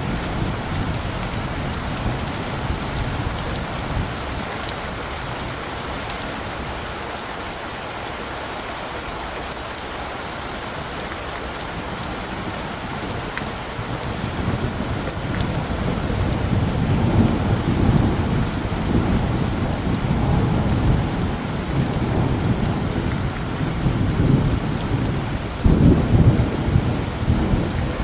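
Steady rain falling, with low rolling thunder that builds through the second half and swells loudest near the end.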